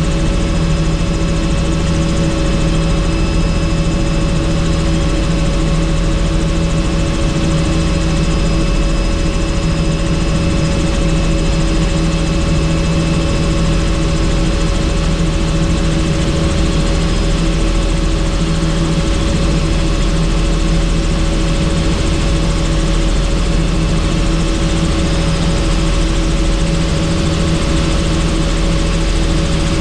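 Helicopter in steady flight, heard on board: a constant loud drone of engine and rotors with several steady whining tones over it.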